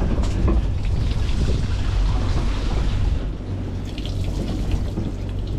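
Water splashing and running aboard a fishing boat, over the boat's steady low hum.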